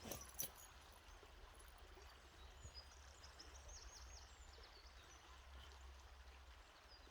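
Near silence outdoors: a faint, even rush of water with a low rumble, and a run of thin, high bird chirps about three to five seconds in.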